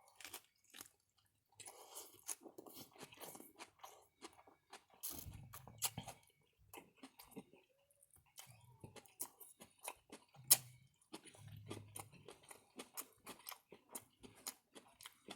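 Close-up eating sounds: a person chewing food with wet mouth-smacking and crunching, made up of many short crackly clicks. One sharper, louder click comes about ten and a half seconds in.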